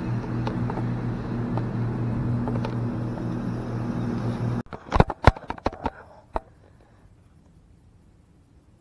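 Boat outboard motor running at a steady speed, then cutting off suddenly about four and a half seconds in, followed by a quick run of sharp clicks and knocks.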